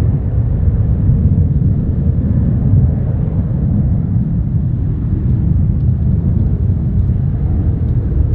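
Jet airliner engines, a steady loud low rumble.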